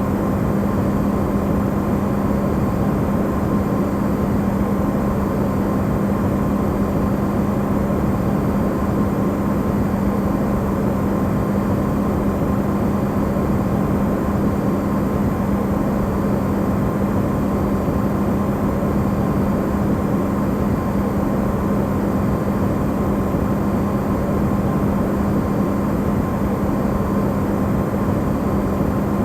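Amplified recording of an Electrolux refrigerator running: a loud, unbroken steady hum with a low drone and a fainter higher whine.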